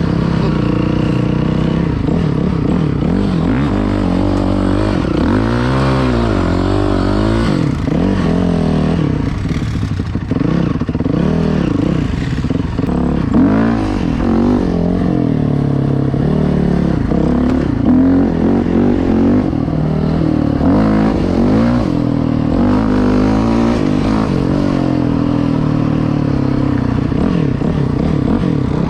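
Dirt bike engine running hard as it is ridden, its pitch rising and falling over and over as the throttle is opened and closed and the gears change.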